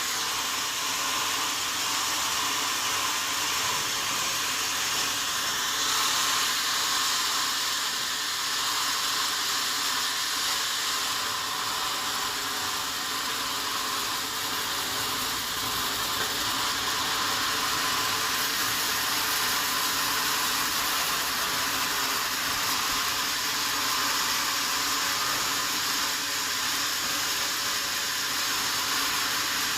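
Sawmill saw cutting through a wadang log: a steady, even noise, mostly high-pitched, with no break.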